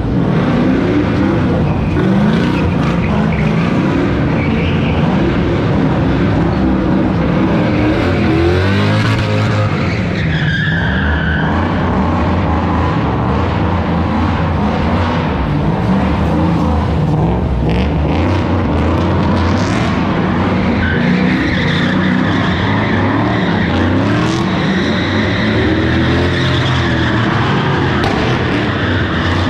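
Drift car engine revving hard, its pitch rising and falling again and again between throttle blips, over continuous tyre squeal and skidding.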